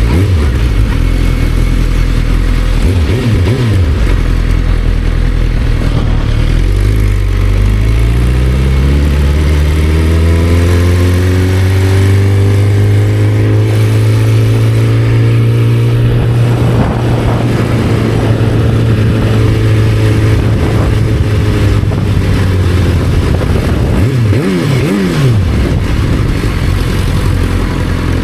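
Motorcycle engine running: its pitch climbs for several seconds as it accelerates, holds steady for about ten seconds, then drops, with quick rev blips near the start and near the end.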